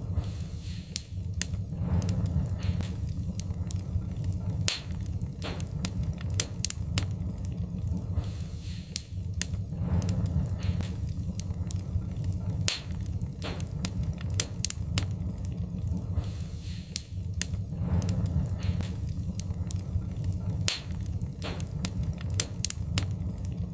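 Wood-burning fire crackling, with irregular sharp pops and snaps over a steady low rumble.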